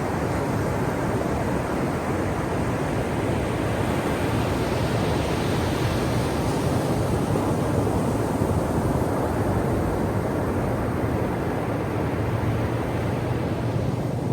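Ocean waves breaking on a shore: a steady rushing surf, with the hiss of a wave building and fading around the middle.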